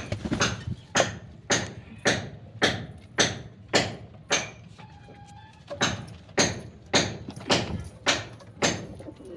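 Sharp, evenly spaced knocks or taps, about two a second, pausing for about a second midway.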